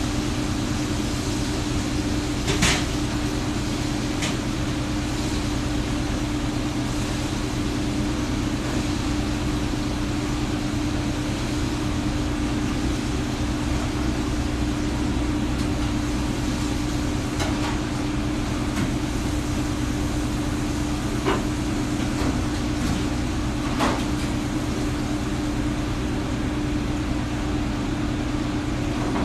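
Steady mechanical hum of kitchen equipment, with a constant tone, broken by about five short clinks of dishes or utensils.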